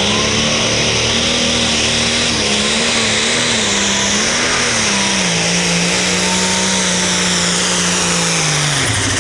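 International 1066 Light Pro Stock pulling tractor's turbocharged diesel engine running hard under load down the track, with a high turbo whistle on top. The engine note wavers, sags about halfway through, then drops away sharply near the end as the run finishes.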